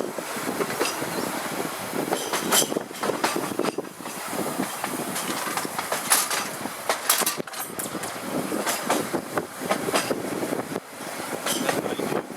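Seaton Tramway tram 8 running along the track, heard from on board: a steady rolling rumble with irregular clicks and knocks as the wheels pass over rail joints.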